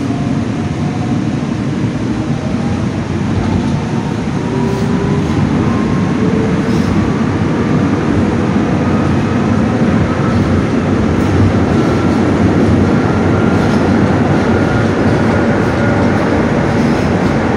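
Electric passenger train running, a loud steady rumble of wheels and carriage with a faint motor whine rising slowly in pitch as it gathers speed.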